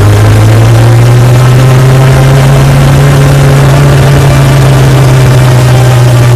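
Motorcycle engine running with a steady, very loud low drone, its pitch edging up slightly about halfway through.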